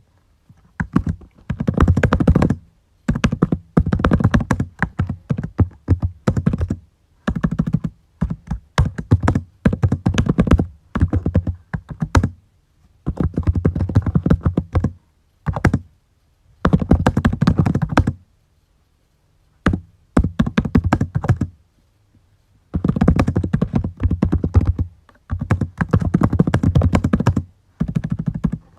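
Typing on a computer keyboard: rapid key clicks in bursts of a second or three, broken by short pauses.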